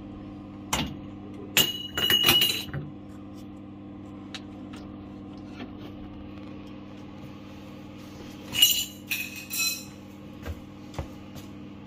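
Metal tools and fittings clinking against boiler pipework: scattered sharp clicks and two short clusters of clinks with a brief metallic ring, about two seconds in and again near the nine-second mark, over a steady low hum.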